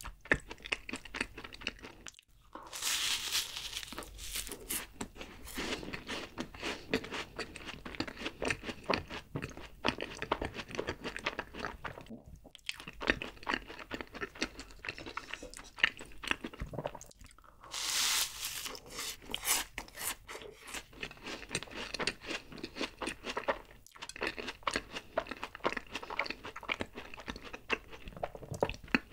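Close-miked chewing of a black crocant choux pastry, a cream puff with a crunchy cookie crust, with dense crisp crunching throughout. There are two louder spells of crunching, about three seconds in and again about eighteen seconds in.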